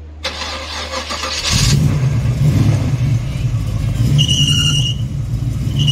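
Hot rod's exposed V8 engine being started: a short burst of cranking, then the engine catches about a second and a half in and runs with a loud, steady low rumble. A short high tone sounds about four seconds in.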